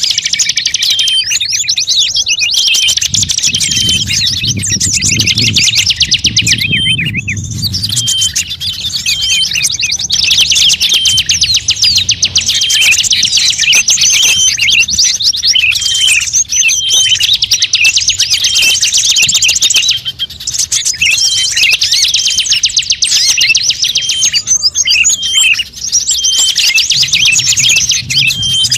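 Dense, unbroken chorus of small songbirds chirping and trilling rapidly, many calls overlapping: a bird-lure (pikat) recording played to draw in wild birds. A low rumble runs underneath from about three to eight seconds in, and again near the end.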